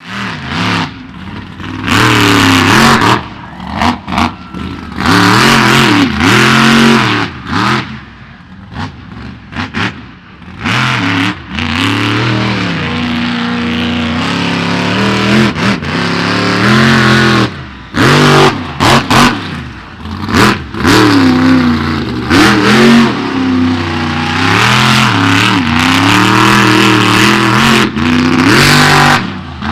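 Monster truck engine revved hard in repeated throttle blasts, its pitch rising and falling as it accelerates and backs off, loud throughout.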